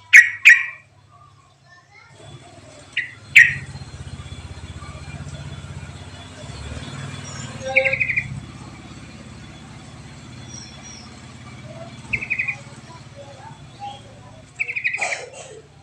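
Sooty-headed bulbul (trucuk) calls. A few loud, sharp notes come at the start and about three seconds in, then three short rattling trills about four seconds apart, over a low steady hum.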